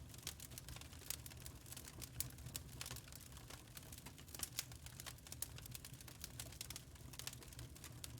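Wood fire crackling: irregular sharp pops and snaps over a low steady rumble of the burning fire.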